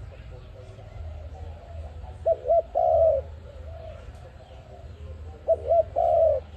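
A dove cooing: twice, a phrase of two quick short coos followed by one longer coo, a few seconds apart, with softer coos between.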